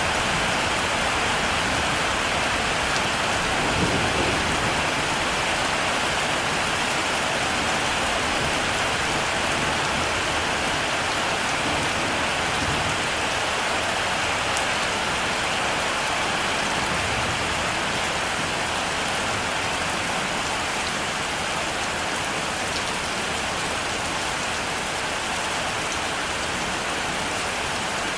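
Heavy rain falling steadily, an even hiss of countless drops, with a low rumble of thunder about four seconds in.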